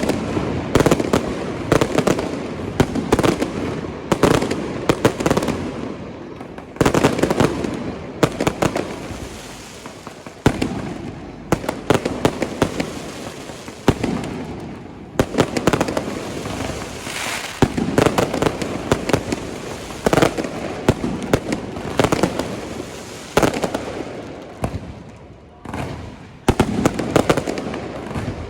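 Aerial fireworks display: shells bursting in quick succession, sharp bangs every second or so with ringing tails, often overlapping in clusters.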